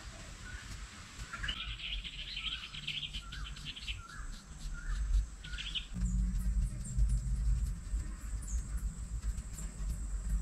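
Wild birds calling: a short chirp repeated about twice a second, joined for about two seconds by a rapid, higher trill. Under it runs a low rumble of background noise that gets louder about six seconds in.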